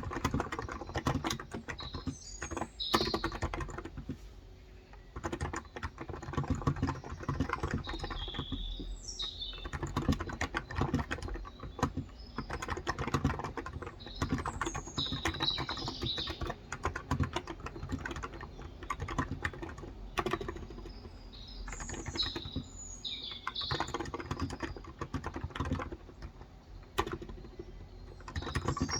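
Continuous typing on a Cox Endeavour tenkeyless keyboard with 35 g electrostatic capacitive (contactless) switches, a dense run of keystrokes. Birds chirp in short bursts several times.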